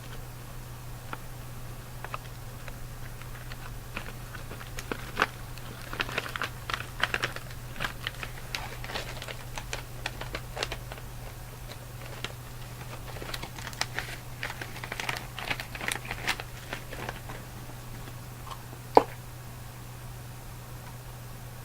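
Close-miked crinkling and clicking of snack packaging being handled, in uneven clusters over a steady low background hum, with one sharp louder click near the end.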